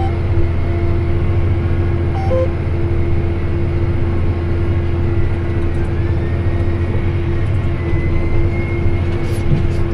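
Tractor engine running steadily while pulling a hay baler, a constant low drone. A short two-note electronic beep sounds about two seconds in.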